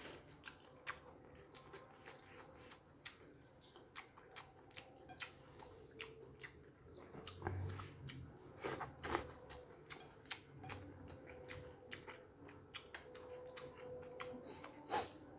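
A person chewing and eating soft food (tofu meatball, noodles and rice) close to the microphone: quiet, irregular mouth smacks and clicks.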